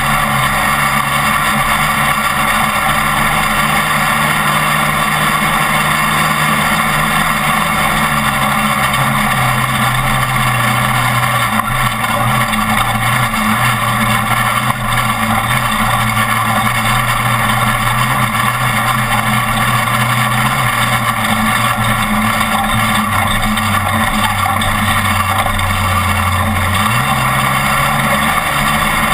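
Off-road race truck's engine running hard over rough desert with heavy road and wind noise. The engine note sinks in steps and then jumps back up near the end as the revs change.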